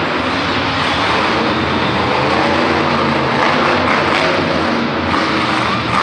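Monster truck engine running hard and loud, its revs rising and falling.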